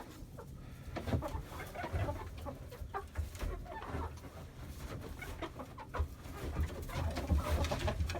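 Chickens (laying hens) clucking in a henhouse, with scattered knocks and low thumps of someone moving about among them.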